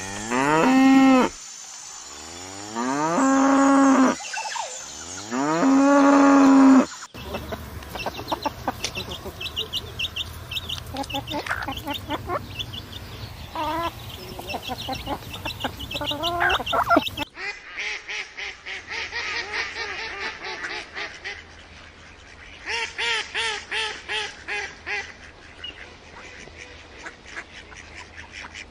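Farm-animal calls in three spliced clips: first three long moos from cattle, each rising then held; then a busy clip of honking waterfowl calls and clicks; then rapid, repeated quacking from ducks.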